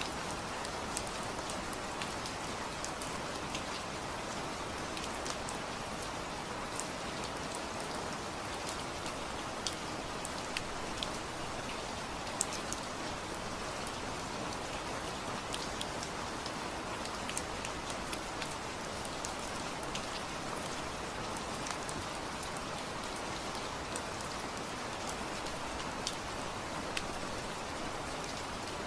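Steady rain falling, an even hiss with many individual drops ticking sharply on a nearby surface.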